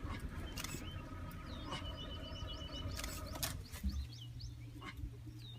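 Small birds chirping repeatedly over a low, steady engine hum, with a few sharp clicks.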